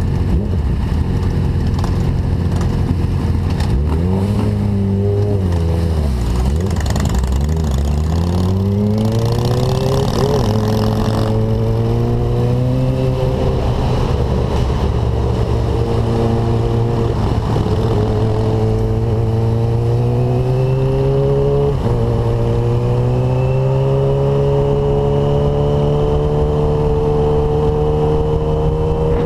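Suzuki GSX-R750 sportbike's inline-four engine idling, then pulling away about four seconds in. Its pitch swings up and down, then climbs through several gear changes with short drops, and near the end it rises steadily under acceleration.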